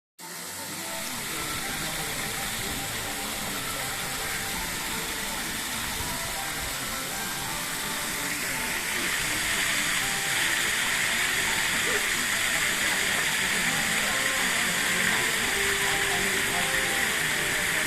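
Garden waterfall, water falling and splashing steadily into its pool, growing clearly louder about nine seconds in. Faint voices are mixed in underneath.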